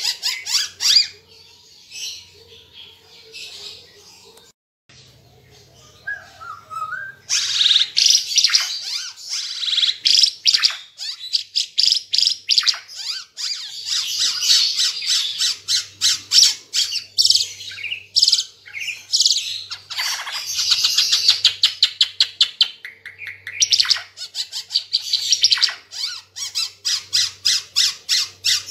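Ara Timor songbird singing a loud, fast song of rapidly repeated high chirps and trills. The first seven seconds hold only scattered quieter calls, then the song runs on almost without a break.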